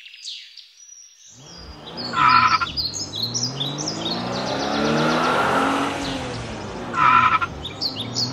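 Birds chirping, then about a second in an off-road vehicle's engine comes in, rising and falling in pitch as it drives, with birdsong continuing above it. Two short honks, about five seconds apart, stand out as the loudest sounds.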